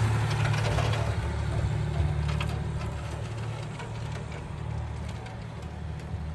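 A train's engine running with a low steady hum that gradually fades, with a few short clicks about two seconds in.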